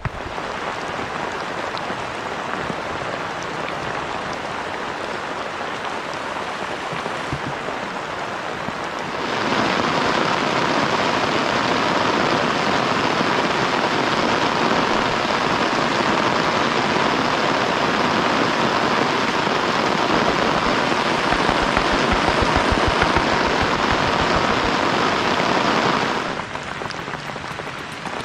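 Heavy rain falling steadily, suddenly louder and harsher about nine seconds in, then easing back a little near the end.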